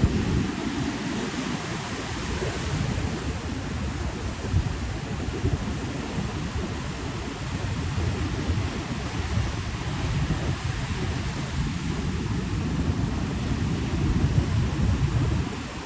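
Ocean surf washing in continuously, with wind buffeting the microphone in a heavy, uneven low rumble.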